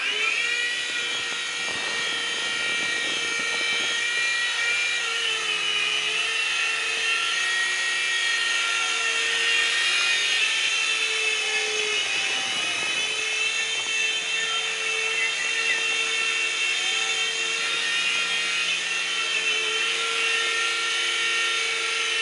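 Electric motors and rotors of a uControl Cloud Force toy RC helicopter whining steadily in flight, spinning up at the start. The pitch dips and rises now and then as the throttle changes.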